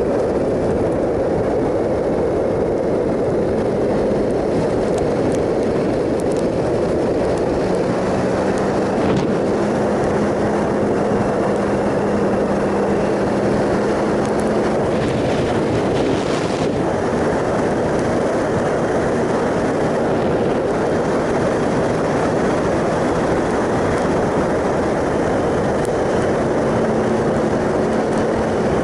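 2007 Triumph Sprint ST 1050's three-cylinder engine running at a steady cruise, nearly buried under a constant rush of wind and road noise from riding at speed.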